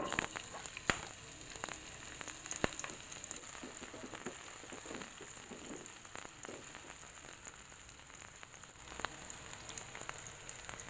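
Sliced shallots and garlic frying in hot oil in a pan: a steady sizzle, with a few sharp clicks of the spatula against the pan as they are stirred.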